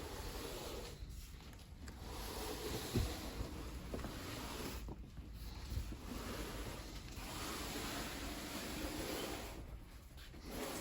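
Rustling and rubbing noise that comes and goes in patches, with a soft thump about three seconds in.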